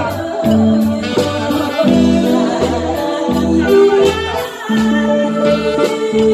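Karaoke backing track with a steady beat of about two strikes a second and a bass line, with a woman singing over it.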